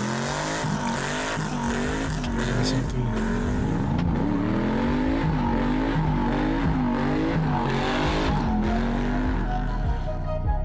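A custom American muscle car's engine revved again and again in quick blips, its pitch rising and falling about once a second over a steady low rumble.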